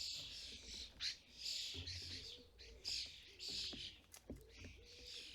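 Common starling fledglings giving harsh, hissing begging calls, repeated over and over.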